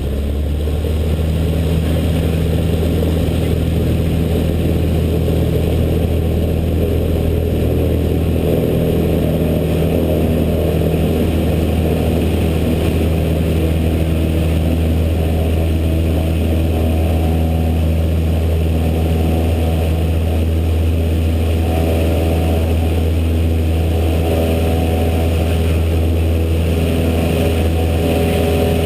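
Cessna 152's four-cylinder Lycoming O-235 engine running steadily at high power, heard loud inside the cockpit, its pitch having just risen as power came up at the very start.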